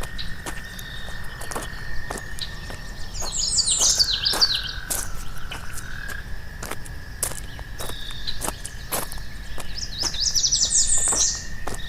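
Footsteps on a path at walking pace, with a songbird singing two quick descending phrases, one about three seconds in and one near the end, over a steady high insect drone.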